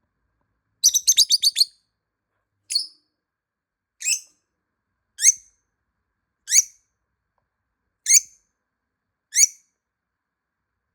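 Lovebird giving shrill, high-pitched calls: a quick run of about six chirps about a second in, then single sharp calls about every second and a half, six in all.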